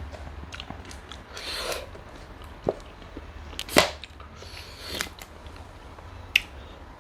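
A person eating close to the microphone: chewing and crunching with irregular sharp clicks and cracks, the loudest a little before four seconds in. A low steady hum runs underneath.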